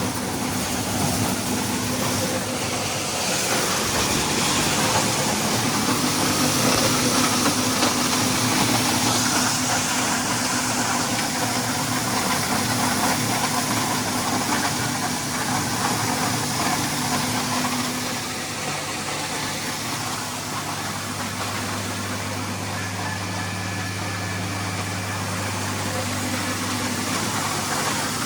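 International Harvester 1066 tractor's diesel engine running steadily under load, driving a 355 grinder-mixer that is grinding hog and cow feed, with a steady grinding rush over the engine hum. About two-thirds of the way through, the engine note shifts lower and gets slightly quieter.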